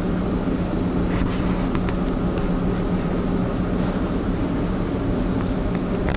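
Steady low drone of a large passenger ship's engines and machinery heard from inside the hull, with a constant hum, and a few faint ticks in the first half.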